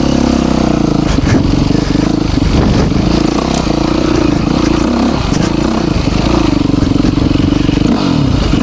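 Yamaha YZ450 dirt bike's single-cylinder engine pulling away, its revs rising and falling with the throttle and gear changes. Near the end the revs drop away and climb again.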